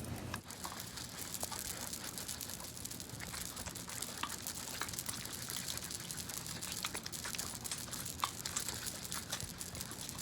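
Hand lotion being rubbed between the hands close to the microphone: a steady crackly rubbing dotted with many small clicks.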